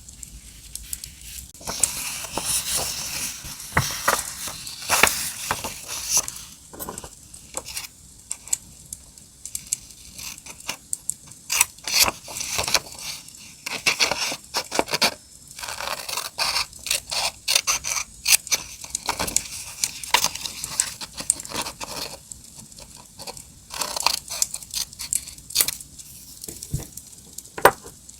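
Paper and stickers being handled for journal decorating: rustling, tearing and scraping in irregular bursts with sharp clicks, starting about two seconds in. A crackling campfire sound runs underneath.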